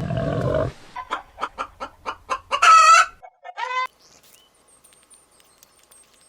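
Chickens clucking in a quickening run of short clucks that ends in a loud squawk and a shorter call. A brief low cow moo is heard at the very start.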